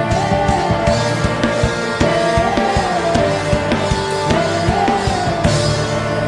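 Worship band music: sustained keyboard chords with a wavering melody line over a steady drum-kit beat.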